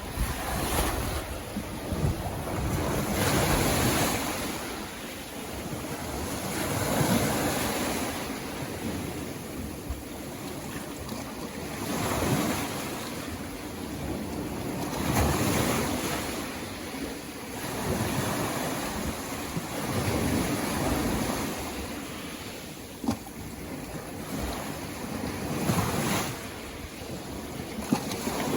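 Sea waves breaking and washing up the beach, the surf swelling and fading every few seconds, with one sharp click near the end.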